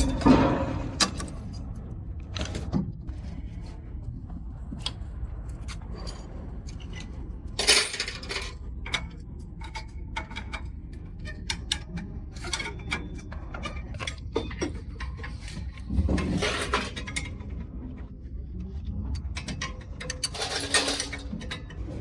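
Metal tools and engine parts clinking and tapping during hand work on a diesel engine, irregular and scattered, with three short louder rasping bursts of about a second each.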